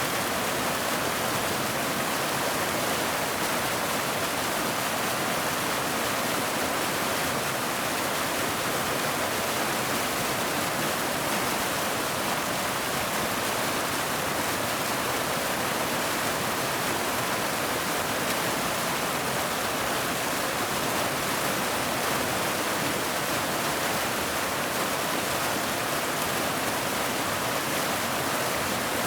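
Waterfall: a steady, unbroken rush of falling water with a bright hiss and little low rumble.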